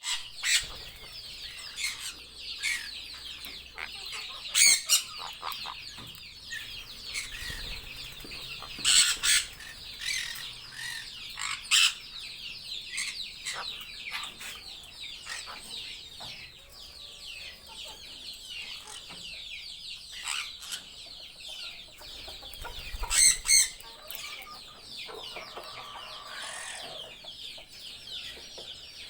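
A dense chorus of many birds chattering, with high-pitched chirping throughout and several loud, harsh screeches standing out about five, nine, twelve and twenty-three seconds in.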